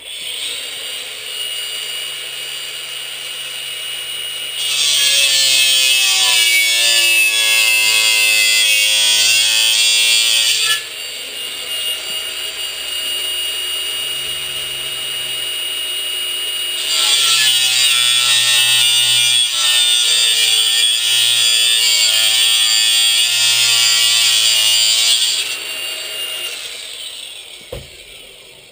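A high-speed power cutting tool running with a steady whine, then cutting into sheet steel in two long, much louder stretches of about six and eight seconds. Near the end it dies away.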